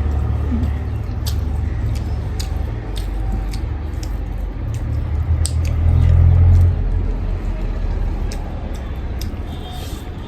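Close-miked eating sounds, chewing with short wet mouth clicks, over a steady low rumble of road traffic that swells for about a second around six seconds in.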